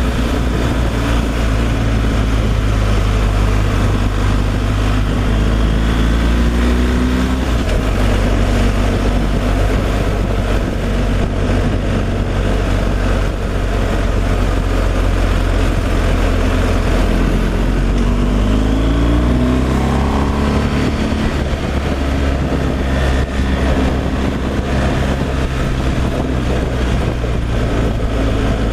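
Diesel engine of a semi-truck running steadily on the road. Its pitch climbs and falls back twice, about six seconds in and again near twenty seconds, as the truck pulls and changes speed.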